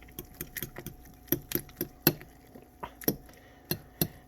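A spoon clicking and knocking against a bowl while a wet puppy mash is stirred. The strokes come irregularly, several a second, with a few louder knocks.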